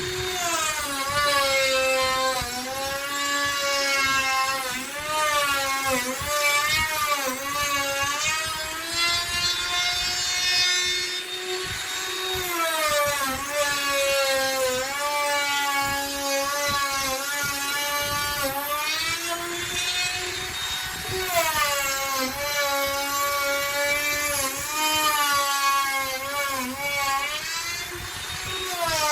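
Electric hand-held router running continuously while cutting wood. Its whine drops in pitch and recovers every few seconds as the bit is loaded and eased in the cut.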